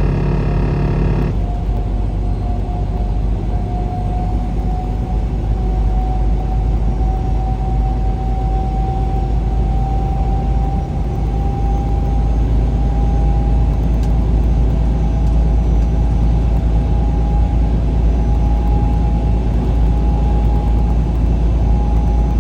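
A truck driving at road speed: steady low road and engine rumble, with a whine that slowly rises in pitch as the truck gathers speed.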